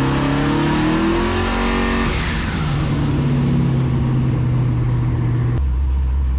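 Twin-turbo LS V8 at full throttle on a hub dyno, heard from inside the car: the revs climb steeply, then the throttle is lifted about two seconds in and the revs fall away to a steady lower note. The pull is cut short early.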